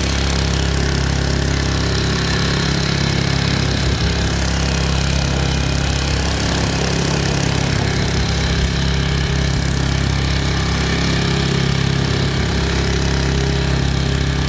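Small 4 hp outboard motor rigged as a jet drive, running steadily at what is taken to be full power.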